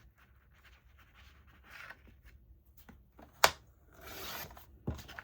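Paper being handled and cut on a sliding paper trimmer: soft rustling and scratching, a sharp click about three and a half seconds in, a brief scraping slide of the cutter blade, then a thud near the end.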